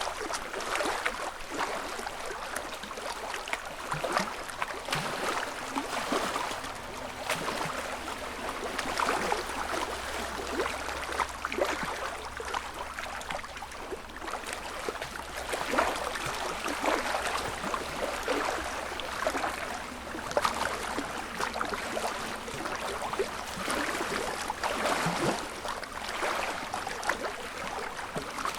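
Small waves lapping and splashing at the edge of a lake, a continuous run of little irregular laps.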